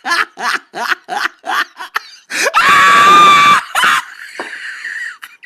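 Rapid bursts of a person's laughter, about four a second, then a loud, high-pitched scream held for about a second, midway through.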